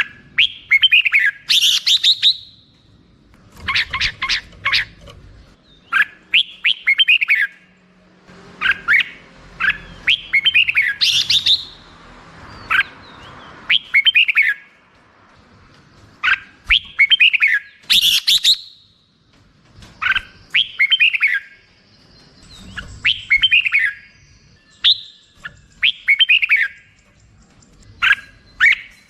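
Red-whiskered bulbul singing: short, quick phrases of chirpy notes, each note sweeping downward, repeated every two to three seconds.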